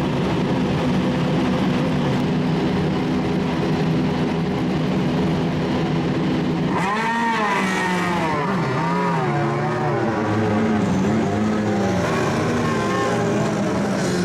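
Endurance race car engines at speed: a steady engine drone for the first half, then about seven seconds in a louder car comes up, its engine note rising and dropping repeatedly as it works through the gears.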